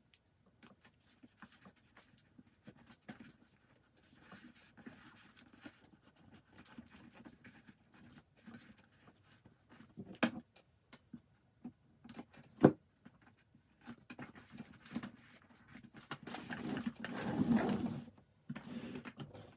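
Hands handling a sticker sheet and a plastic toy: scattered light clicks and taps, one sharp click about halfway through, and a longer rustle near the end.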